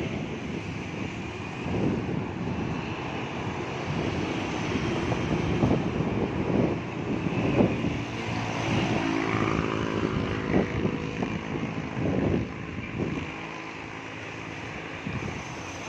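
Airliner engines running at a distance during a takeoff, a steady rushing noise with a faint hum about halfway through, and wind buffeting the microphone.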